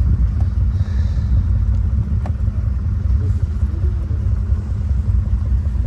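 ATV engine running steadily under way, a continuous low rumble.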